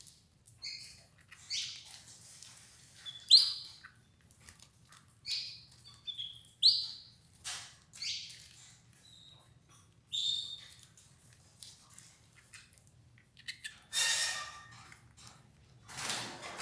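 Domestic canaries giving short, high chirping calls about once a second, with two brief louder rustles near the end.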